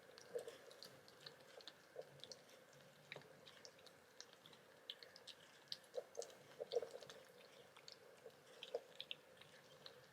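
Faint, irregular wet clicks and smacks of a kitten's mouth, as when eating, with a few soft knocks among them.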